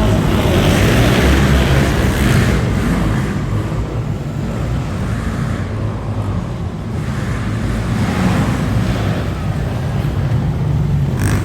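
Monster truck engine running hard and revving, the sound swelling and easing a few times.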